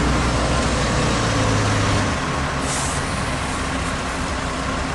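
Heavy truck engine idling steadily. Its low hum drops about two seconds in, and a short hiss of air, like an air-brake valve venting, comes a little later.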